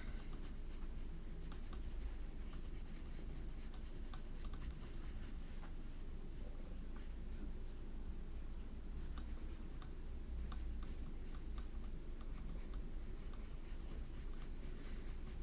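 A watercolour brush stroking and dabbing on a paper page: faint, scattered soft scratches and taps over a steady low room hum.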